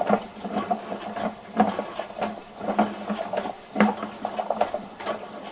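Sewer inspection camera's push cable being fed by hand down a drain pipe: irregular clicks and knocks over a steady low hum.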